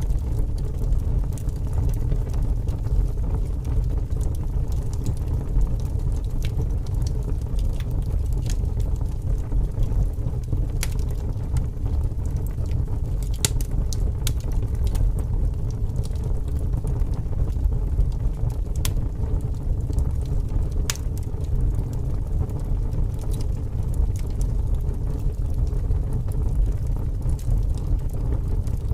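Wood fire burning, with scattered sharp crackles and pops over a steady low rumble of strong wind.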